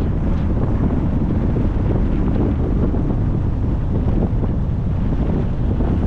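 Wind buffeting the microphone of a moving car, a steady low rumble mixed with road noise.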